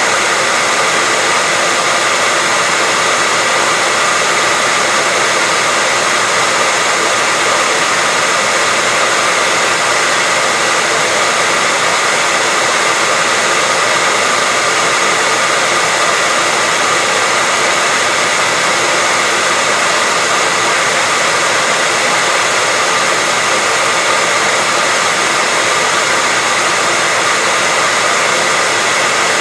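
Hairdryer running continuously at a steady, unchanging level: a loud, even airy rush with a faint whine in it, kept on as white noise.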